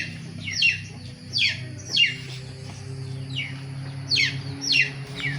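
A lost chick peeping: about six loud, short peeps, each sliding sharply down in pitch, irregularly spaced. It is the distress call of a chick separated from its mother hen.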